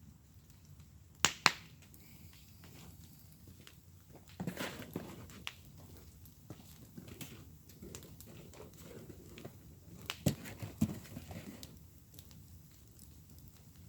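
Wood fire crackling in a fire pit, with two sharp loud pops about a second in, a burst of crackles a few seconds later and two more pops around ten seconds in, over a low steady hiss of burning.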